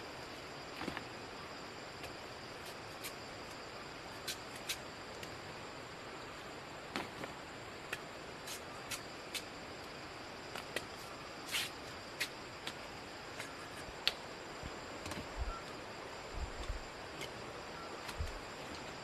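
Steady high-pitched insect chirring, with scattered sharp clicks and taps throughout and a few low thuds in the last few seconds.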